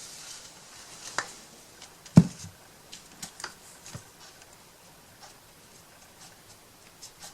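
Scattered light clicks and taps of small wooden craft pieces and painting supplies handled on a tabletop, with one sharper knock about two seconds in.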